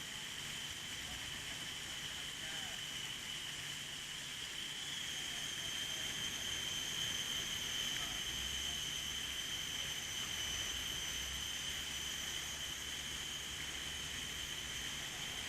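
Insects droning steadily in an unbroken high whine over a steady hiss.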